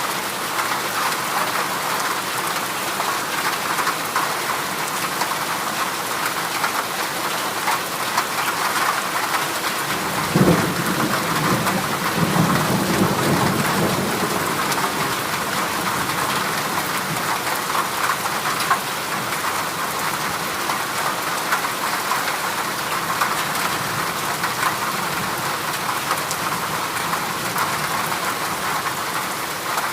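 Heavy rain falling steadily on a corrugated metal roof. About ten seconds in, a clap of thunder breaks in sharply and rumbles low for a few seconds before fading under the rain.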